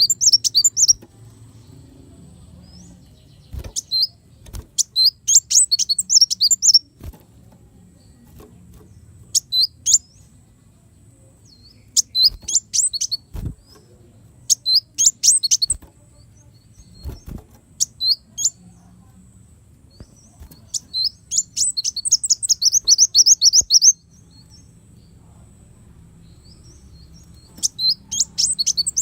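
Kolibri wulung sunbird singing: short bursts of high, rapid chirps repeated every couple of seconds, with one longer fast trill about three quarters of the way through. A few faint knocks sound under the song.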